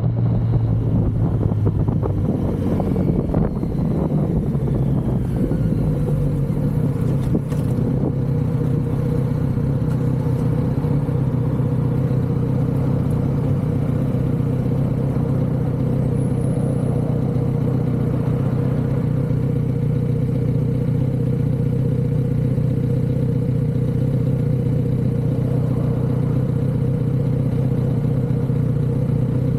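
Kawasaki Z900RS's inline-four engine running through its stock exhaust at a steady engine speed.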